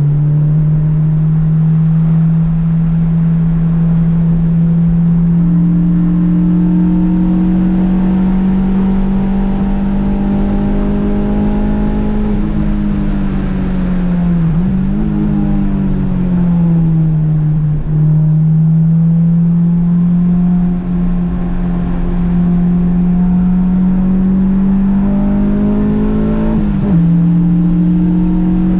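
Honda Civic's engine running hard on track. Its note climbs slowly, falls and wavers around the middle, climbs again, then drops abruptly near the end.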